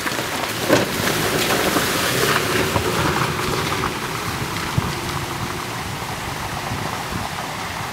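A vehicle driving on a dirt road: tyres crackling over loose gravel and stones, under a steady rush of road and wind noise with a faint engine hum.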